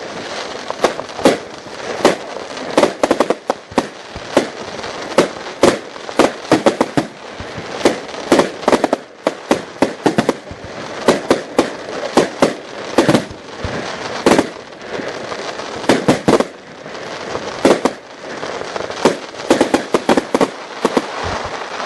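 New Year's midnight fireworks: a dense, irregular run of bangs and firecracker reports, several a second, over continuous crackling.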